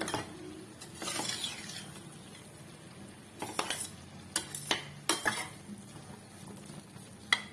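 A spoon stirring minced chicken keema in a kadai, knocking and scraping against the pan in a few sharp clicks, over a light sizzle.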